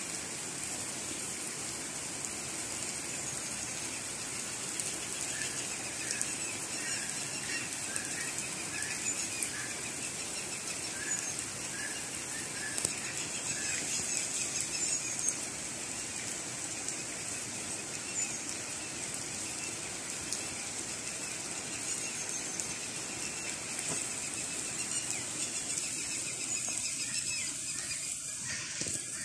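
Steady rain falling, with a bird calling in a run of short repeated chirps partway through.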